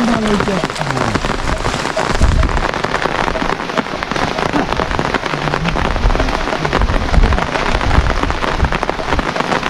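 Heavy rain pattering steadily, dense and loud.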